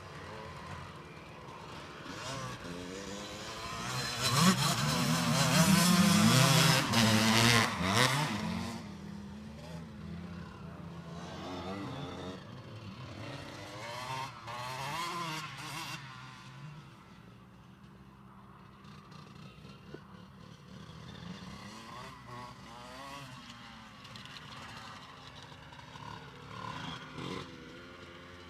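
Motocross bikes revving and shifting around a track, engine pitch rising and falling. One bike passes close and loud for a few seconds about four seconds in; after that, more distant bikes.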